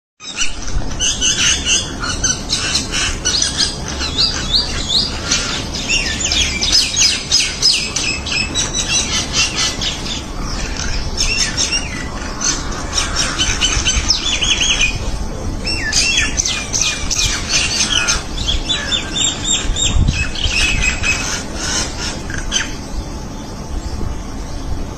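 Birds calling: rapid, overlapping high chirps and squawks, thinning out near the end.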